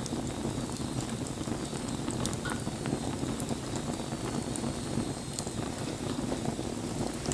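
Wood fire burning: a steady low rush with scattered sharp crackles and pops from the burning wood.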